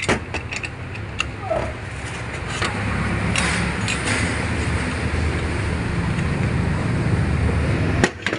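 A motor vehicle running nearby: a low, steady engine rumble that swells about two seconds in and holds. Light clicks come in the first few seconds, and a sharp click near the end.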